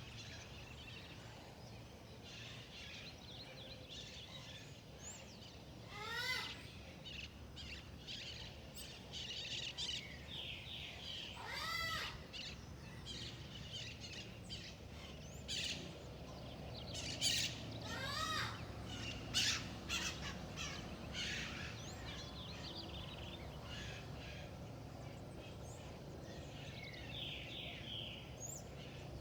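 Wild birds calling and chirping, with three louder runs of quick repeated notes through the middle, over a steady low background rumble.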